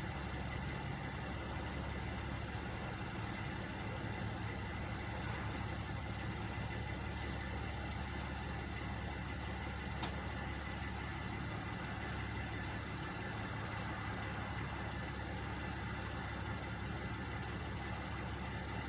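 Truck engines idling steadily, a constant low hum.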